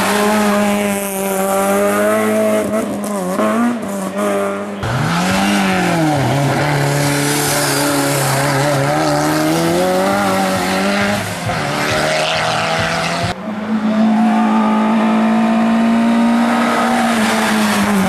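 Racing car engines at full throttle, the engine note climbing and dropping again and again through gear changes. The sound switches abruptly to a different car about five seconds in and again near thirteen seconds.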